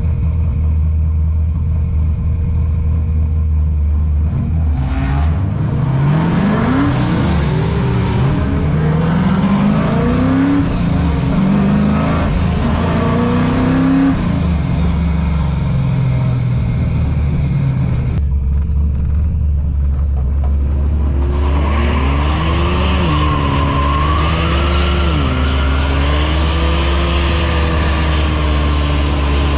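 Car engines heard from inside a moving car: a steady low drone, with an engine accelerating in several rising sweeps between about 5 and 14 seconds in. After a sudden change about 18 seconds in, engines rev up and down, as at a street takeover.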